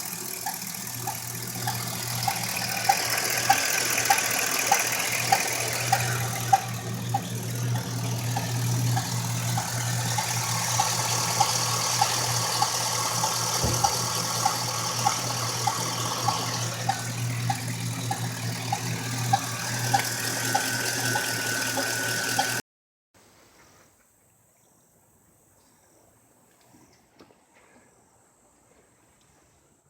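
Chevrolet 5.3 L V8 running with a sharp, regular tick about twice a second over the engine's hum: lifter noise from a failed roller lifter. The sound cuts off suddenly about three quarters of the way through, leaving near silence.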